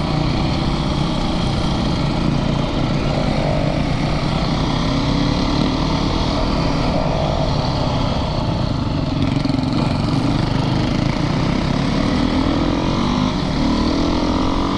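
Single-cylinder four-stroke engine of a Yamaha YZ450FX dirt bike running under way on a ride, its pitch climbing as it revs up about three-quarters of the way through.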